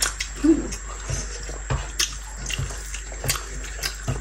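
Close-up chewing and lip-smacking while eating rice and kinema curry by hand: a run of short wet clicks and smacks, with a brief hum about half a second in.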